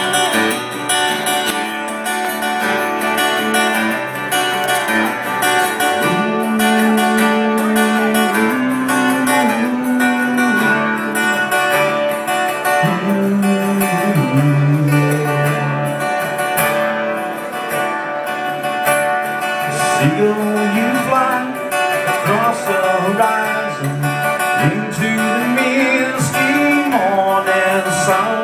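Solo acoustic guitar playing a song's instrumental intro, picked and strummed.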